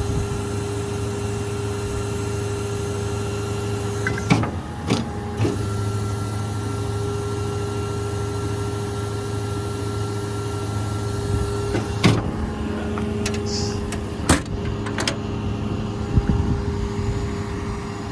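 Ford F550's 6.7-litre Power Stroke V8 diesel running at idle with a steady hum. There are several sharp clicks, about 4, 5, 12 and 14 seconds in. A steady higher tone drops out with the first clicks, comes back, and stops again near the 12-second click.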